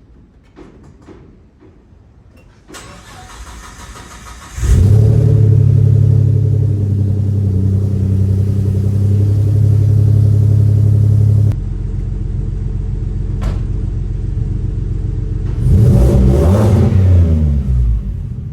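Turbocharged V6 Ford Mustang engine starting about four and a half seconds in and settling into a steady high idle that drops lower at about eleven and a half seconds. Near the end it is revved once, rising and falling in pitch, before it returns to idle. Before the start there are a few light clicks and then a steady hiss.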